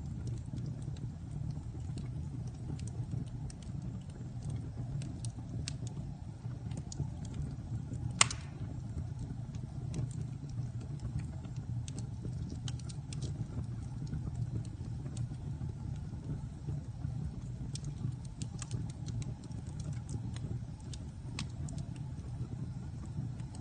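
Wood fire burning in a fireplace: a steady low rumble with scattered crackles, and one loud pop about eight seconds in.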